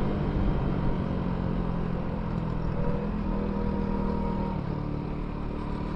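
Benelli Leoncino 250 single-cylinder motorcycle engine running while riding, with its pitch easing down slightly about three seconds in and again near five seconds.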